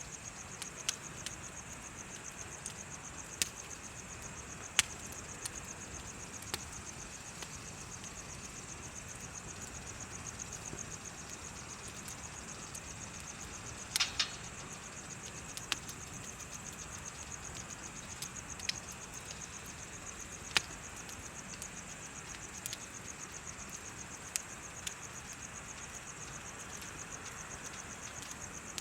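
Bonfire crackling, with scattered sharp pops and a louder pair of pops about halfway through, over the steady rapid chirping of insects.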